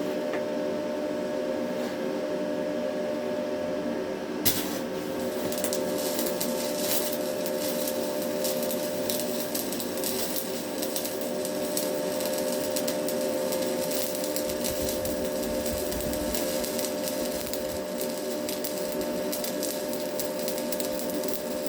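Stick (MMA) welding with Hilco electrodes, done in position: the arc is struck with a sharp click about four seconds in, then crackles and sizzles steadily over the welding machine's constant hum.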